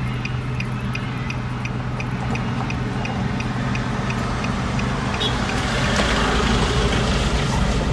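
Inside a 2007 Nissan Note while driving: steady engine and road noise, with the turn-signal indicator ticking about three times a second for the first five seconds. The road noise grows a little louder near the end.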